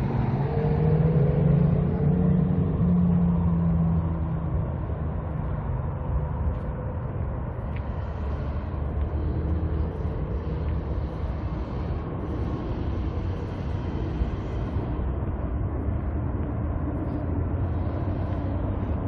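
Road traffic passing: a steady rumble of vehicle engines and tyres, with one engine's tone most prominent over the first few seconds.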